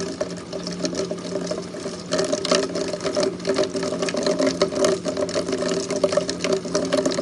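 Heavy rain coming down hard, a dense patter of drops hitting close by, with a steady hum underneath.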